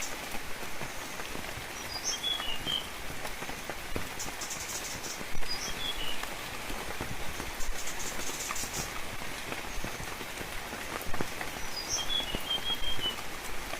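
Steady rain falling, with individual drops tapping. A bird chirps in short high notes a few times: about two seconds in, around six seconds in, and near the end.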